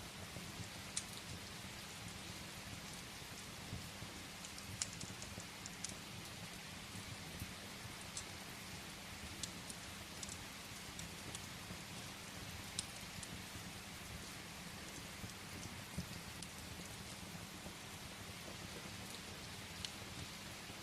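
Steady rain, with scattered sharp crackles and pops of firewood burning in a fireplace.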